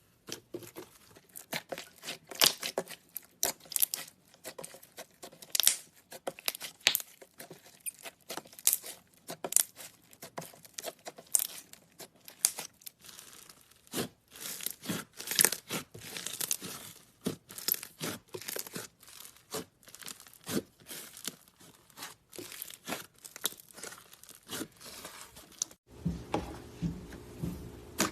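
Clay slime being handled, squeezed and stretched, giving a dense run of irregular sticky crackles and pops. Near the end a steady low hum joins in.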